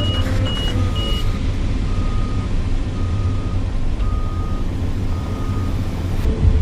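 Heavy diesel construction equipment running with a low rumble while backup alarms beep: a higher, quicker alarm stops about a second in, and a lower one beeps about once a second until near the end, the sign of machines reversing.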